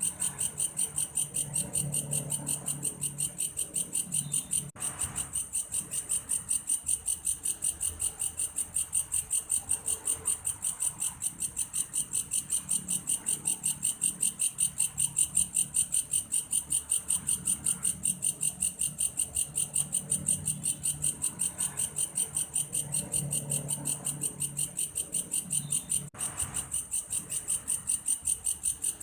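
Insect the uploader calls belalang kayu, a grasshopper whose song is likened to a cricket's, calling steadily. The call is a fast, high-pitched trill that pulses about three times a second, with two very brief dropouts, at about 5 seconds in and near the end.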